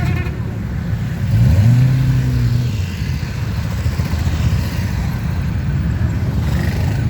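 Several motorcycle engines running as they ride past, with one engine revving up and holding its pitch about a second and a half in.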